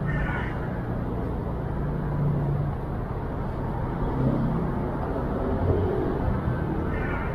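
Steady urban traffic noise: cars passing on the street below, a continuous low rumble.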